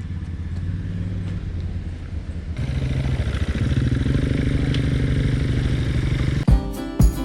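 ATV engine running, steady at first and louder with a fast pulsing from about two and a half seconds in. Music with a heavy beat comes in near the end.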